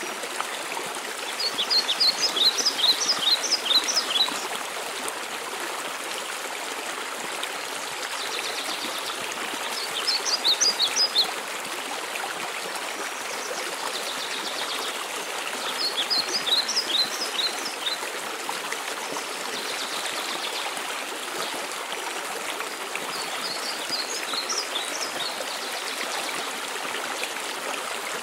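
Steady rush of a waterfall. A songbird sings a short phrase of quick, high, repeated notes, which comes back roughly every seven seconds.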